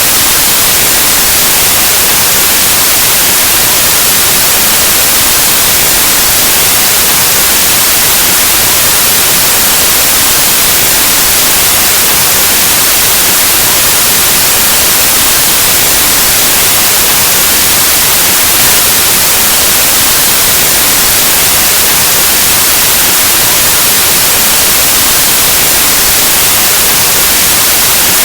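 Continuous white noise, a loud steady hiss like analog TV or radio static, even and unchanging.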